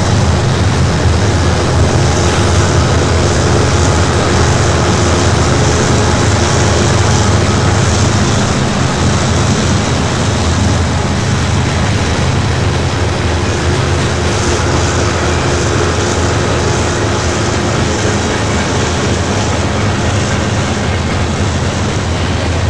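Freight cars of a CN manifest train rolling past, a steady, even rumble without breaks.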